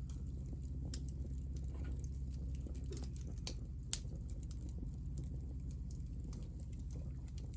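Hinoki (Japanese cypress) offcuts burning: a steady low rush of flame with scattered crackles and small pops, the sharpest pop about four seconds in.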